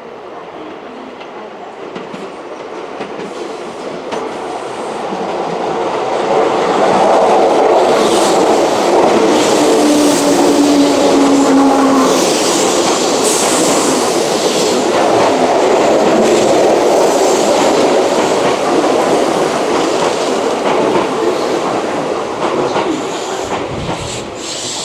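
Keihan electric train pulling into the platform: wheels clattering over rail joints, the sound building, then easing off as it brakes, with a steady hum for a few seconds in the middle.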